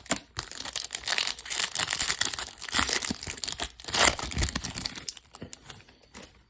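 Crinkling and tearing of a trading card pack's plastic wrapper as it is ripped open, with the loudest crackles about three and four seconds in, dying away near the end.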